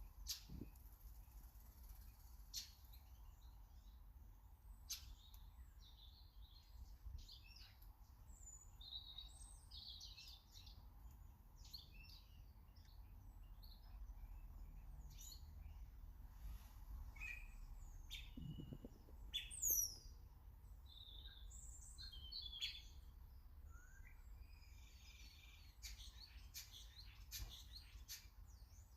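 Small garden birds chirping and calling, many short scattered notes, with one louder, sharper falling call about twenty seconds in, over a faint low background rumble.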